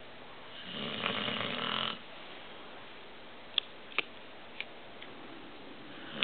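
A sleeping American Bulldog snoring: one long snore about half a second in, a few brief sharp clicks in the middle, then the next snore starting right at the end.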